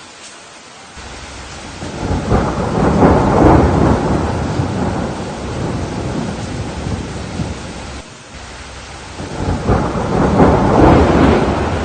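Steady rain with two long rolls of thunder. The first builds about two seconds in and dies away over several seconds; the second swells near the end.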